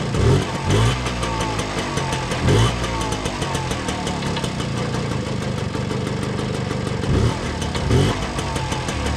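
A 1984 Puch Austro Daimler moped's 50cc two-stroke engine idling steadily, blipped up in revs five times in short bursts, running for the first time after sitting unused for 39 years.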